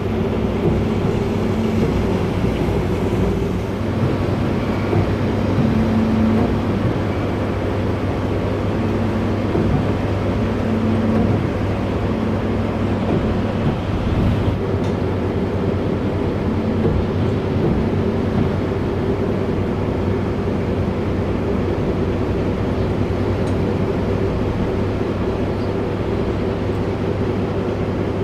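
A ferry's engines running at a steady cruise, heard on board as a constant low drone with a few steady hum tones over a wash of noise.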